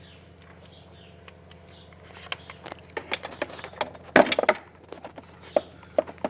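Irregular metallic clicks and knocks of hand tools and small metal parts being handled while nuts are fitted on throttle body studs. A louder clatter comes about four seconds in.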